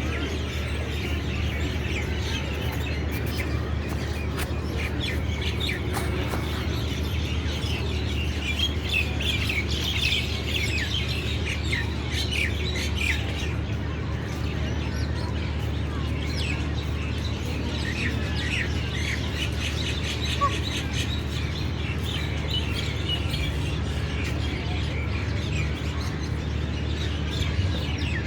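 Many small birds chirping continuously in a busy chorus of short, high chirps, over a steady low rumble.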